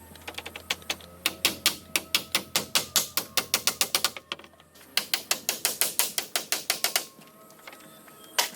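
Rapid, even hand-tool strikes, about seven a second, in two runs of a few seconds with a short break between, then a single strike near the end.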